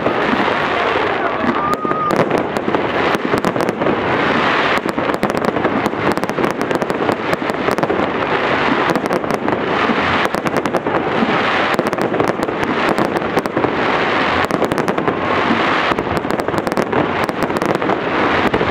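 Aerial fireworks bursting one after another in a continuous barrage of bangs and crackles.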